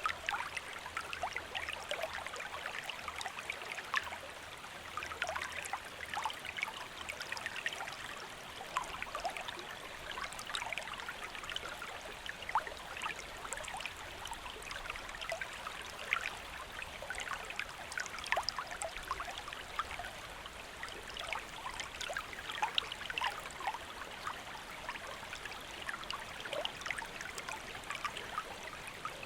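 Shallow stream flowing steadily over stones, a continuous rush of water with many small splashes and gurgles through it.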